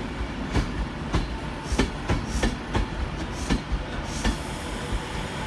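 Class 390 Pendolino electric train rolling slowly past: a steady rumble of wheels on track, with wheel clicks over rail joints about every half second that stop about four seconds in.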